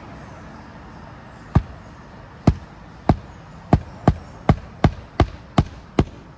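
Magnetic roofing hatchet driving roofing nails: ten sharp hammer strikes, coming a little faster towards the end, fastening a replacement 3-tab composition shingle down through its sealant strip.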